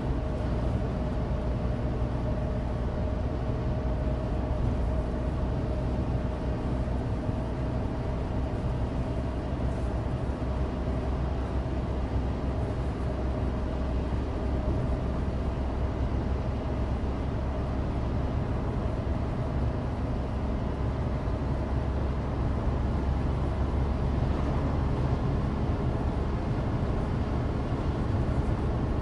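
Cabin sound of a 2016 Suzuki Alto Turbo RS on the move: its 660 cc turbocharged three-cylinder engine running steadily under the drone of studless winter tyres on dry road.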